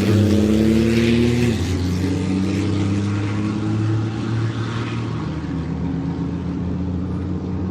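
Rally truck's diesel engine revving hard as it launches from the start line, its pitch rising for about a second and a half, then dropping, then running on steadily as it pulls away and slowly fades.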